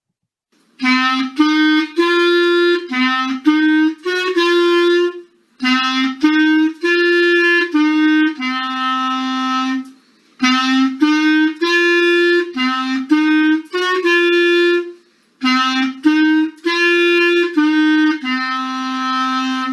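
A solo woodwind instrument playing a short, lively tune in four phrases, with brief breaks between them.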